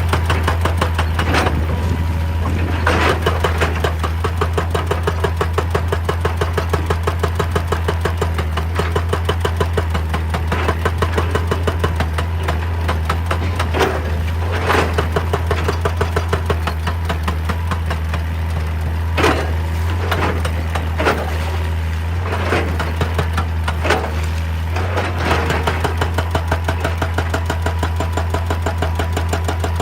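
Hydraulic excavator's diesel engine running steadily with a fast regular pulsing, and louder sharp knocks now and then, about nine in all, as the machine works rock.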